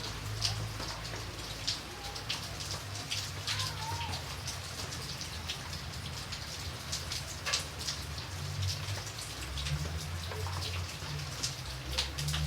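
Steady rain falling, with many separate drops ticking sharply on a surface close by at irregular moments, over a low rumble that swells and fades.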